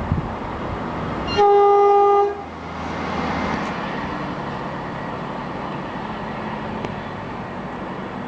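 Train horn sounding one short blast, a single steady note lasting under a second, about a second and a half in. After it comes the steady running noise of the train.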